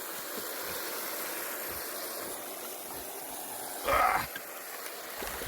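Water spraying from the spray bar at the head of an 8-inch river sluice and washing down the sluice: a steady hissing rush, with a brief louder noise about four seconds in.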